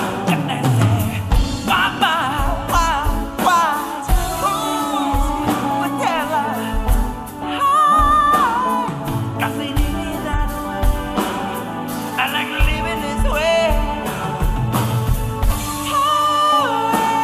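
Live band music, with drums, bass, keyboards and guitar, under wordless singing with wavering, drawn-out notes.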